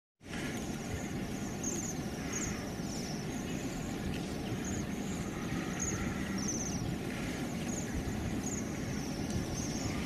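High, thin trilled bird calls repeating every half second or so, over a steady low rumble.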